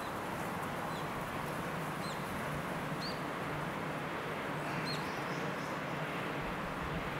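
A small bird giving four short upswept chirps, about a second or two apart, over a steady even background noise.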